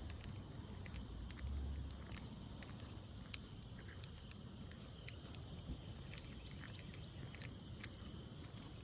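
Outdoor ambience: a steady high-pitched drone of insects, with scattered light clicks and a low rumble of wind on the microphone in the first couple of seconds.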